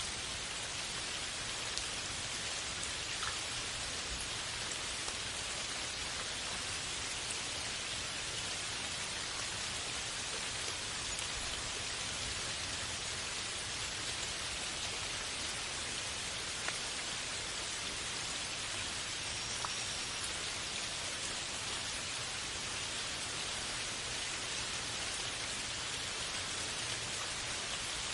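Steady rain falling, an even hiss of many drops with a few separate drips standing out now and then.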